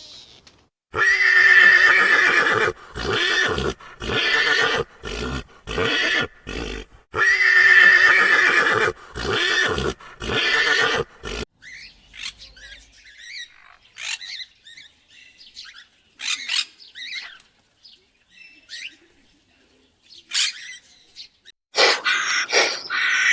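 Animal calls: a loud, drawn-out pitched call breaking into a string of short pulses, heard twice about six seconds apart. Fainter scattered calls follow, then louder calls start again near the end.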